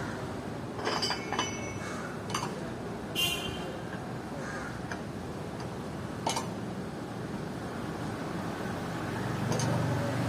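Steady low traffic hum with a few short, sharp clicks and knocks scattered through it, and one brief high call about three seconds in.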